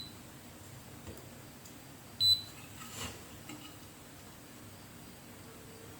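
A digital multimeter's continuity beeper gives one short, high beep about two seconds in, with a few faint clicks around it. On a MOSFET test, the beep signals a short across the part.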